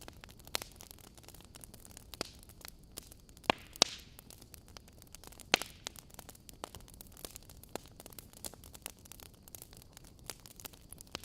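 Wood fire in a fireplace crackling: a steady scatter of small clicks over a faint hiss, with a few louder sharp pops, the loudest about three and a half to four seconds in and again at five and a half.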